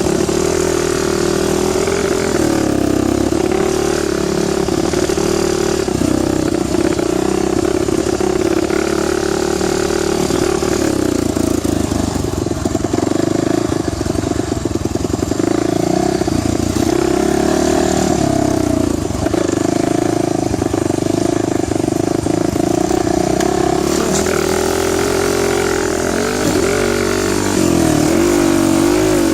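Dirt bike engine running under way, its pitch rising and falling with the throttle, with quicker up-and-down revving near the end.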